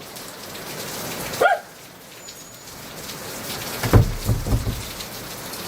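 Heavy rain falling steadily. A single short animal call, dog-like, comes about a second and a half in, and a few low thumps follow a little after four seconds.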